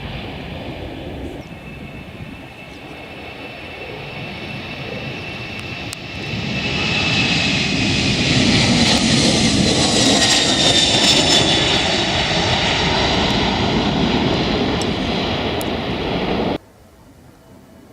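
Jet airliner's engines at take-off thrust, a rushing roar that swells about six seconds in as the aircraft comes close, with a high whine that slowly falls in pitch; the sound cuts off abruptly near the end.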